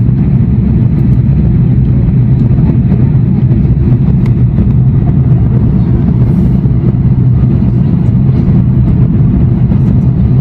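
Steady, loud low rumble of an Airbus A340-600 in the climb after takeoff, heard from inside the aircraft: its four Rolls-Royce Trent 500 engines and the rush of air over the airframe.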